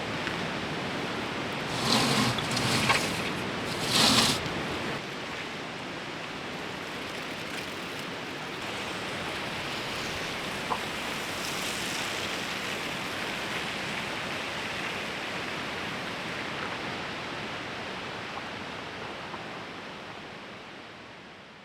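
Steady rushing of a fast-flowing river. A few brief louder noises stand out about two and four seconds in, and the sound fades out near the end.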